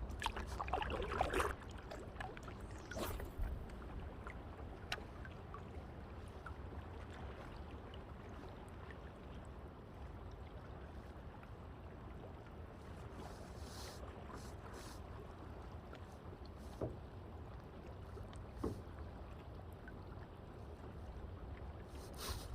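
Kayak on a lake: a steady low rumble of wind and water around the boat, with a few light knocks now and then.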